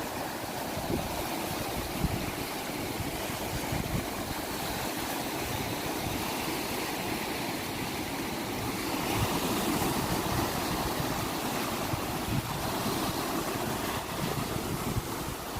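Ocean waves washing ashore in a steady rush of surf, swelling slightly about two-thirds of the way through, with some wind on the microphone.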